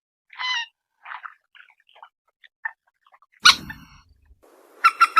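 Rice-field bird calls from a lure recording: short, scattered harsh notes, then a loud call with a thump about three and a half seconds in, and two more loud, sharp calls over a faint hiss near the end.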